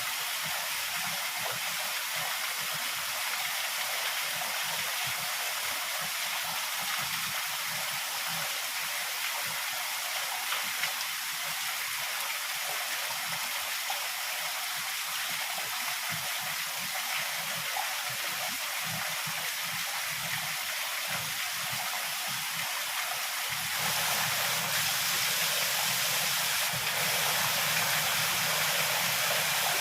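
Heavy rain pouring in a steady, dense hiss. About three-quarters of the way through, a low steady rumble joins and the whole gets a little louder.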